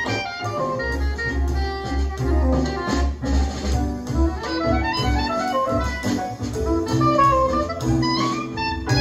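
Instrumental jazz with a saxophone playing lines over double bass and accompaniment.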